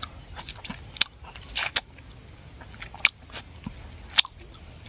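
A person biting and chewing fresh honeycomb close to the microphone, with irregular sharp, wet mouth clicks and smacks.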